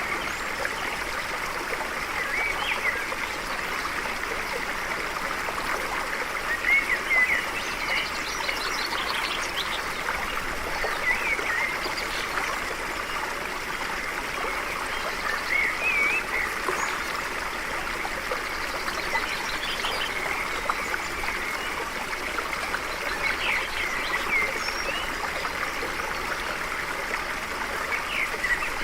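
A stream running steadily over stones, with birds giving short chirps every few seconds.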